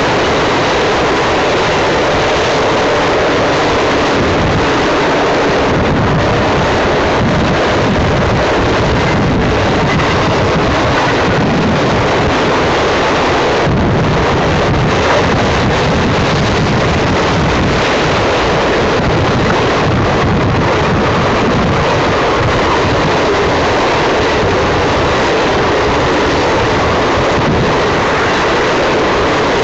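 Union Pacific freight train of auto rack cars rolling past close by: a loud, steady rumble of steel wheels on the rails that holds at an even level.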